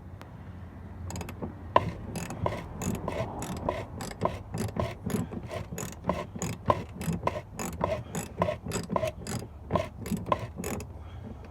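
A 15 mm wrench ratcheting on the nut at the top of a shock absorber's rod, about three sharp clicks a second in a long run of short back-and-forth strokes.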